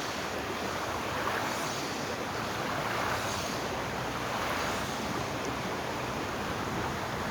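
Flowing river water rushing steadily, swelling a little now and then.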